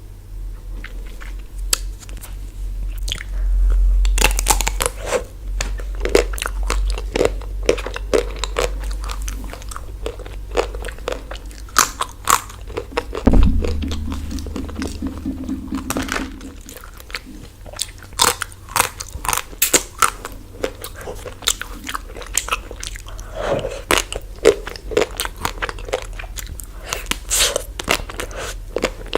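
Close-up crunching and chewing as bites are taken out of a chocolate-coated ice cream bar, the shell cracking in quick irregular snaps. About halfway through a low steady hum sounds for about three seconds.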